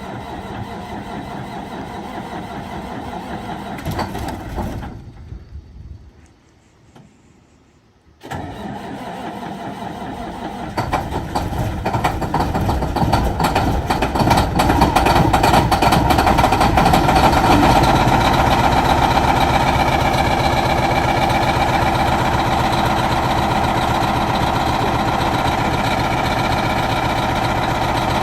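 Kenworth W900L truck's diesel engine cold-starting at about −19 °C. After a lull it fires about eight seconds in and runs louder for several seconds, then settles into steady running.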